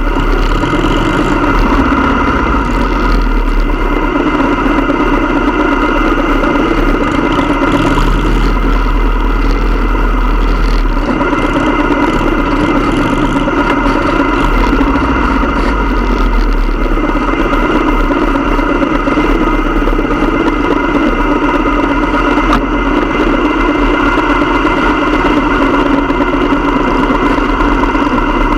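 Motorcycle engine running steadily with a deep, even rumble that holds level throughout.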